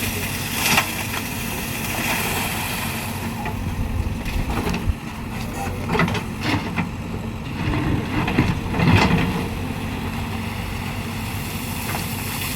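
Heavy diesel earth-moving machinery running steadily, broken by a few short, louder clattering scrapes, the biggest about three-quarters of the way through.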